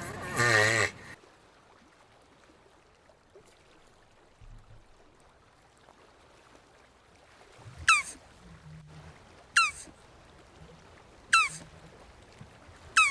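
A jabuti tortoise's wavering, bleat-like call, which ends about a second in. After a quiet stretch come four short, sharp, falling chirps in the second half, spaced about a second and a half apart.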